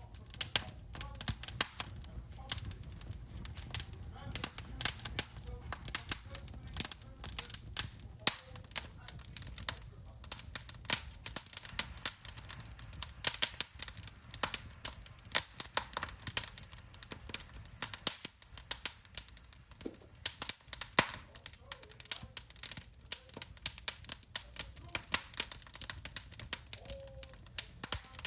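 Wood fire in a fireplace crackling and popping: many sharp, irregular snaps in quick succession over a low steady background.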